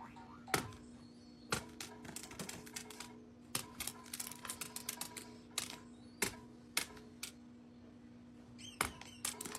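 A run of sharp, irregular clicks and taps, in quick clusters, over a steady low hum.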